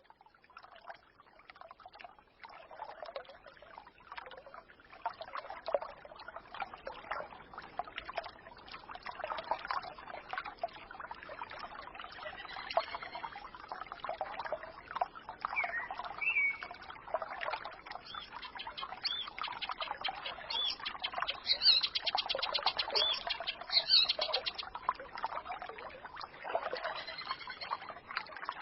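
Small forest stream trickling and babbling, fading in over the first few seconds, with songbirds calling over it: short chirps midway and a fast, high trill about three quarters of the way through.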